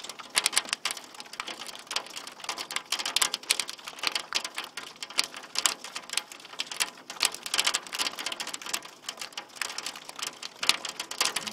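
Pea-sized hail mixed with heavy rain striking a hard surface: a dense, irregular rapid clicking and ticking, loud.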